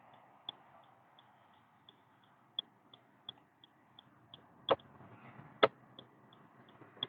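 Car turn-signal indicator ticking evenly, about three clicks a second, over faint road noise, with two louder sharp clicks past the middle.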